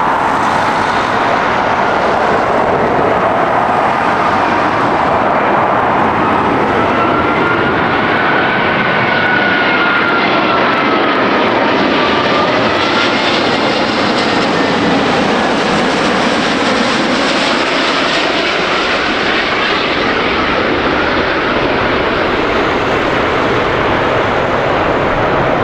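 Jet airliner engines at close range, running loud and steady, with a thin whine that drifts up and down in pitch.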